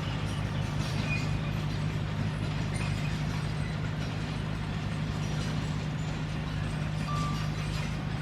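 Diesel engine of a Komatsu D21P crawler bulldozer running at a steady pitch, with faint clicks and a few brief squeaks over it.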